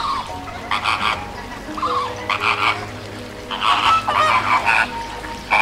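Flamingos calling: several short calls spaced over a few seconds, coming closer together later on.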